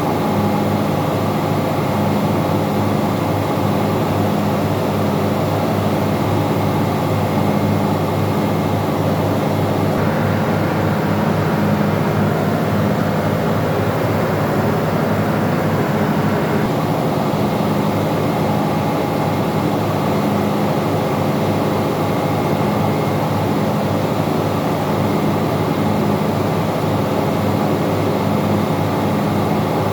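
Steady, loud drone of ship's engine-room machinery, with a low hum that pulses regularly. A hiss joins for about six seconds in the middle.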